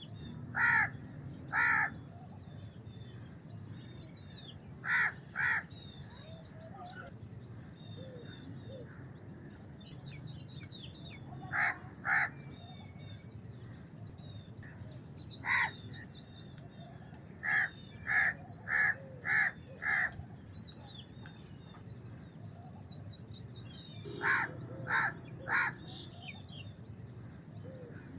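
House crows cawing: short harsh caws in groups of one to four, with a run of four about two-thirds of the way through. Small birds twitter high-pitched throughout, over a steady low background noise.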